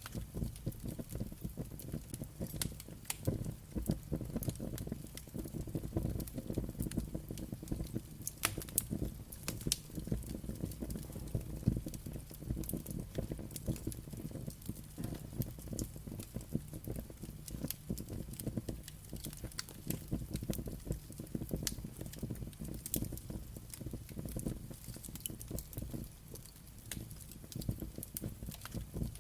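Wood fire crackling, with frequent sharp irregular pops and snaps over a low steady rumble of the flames.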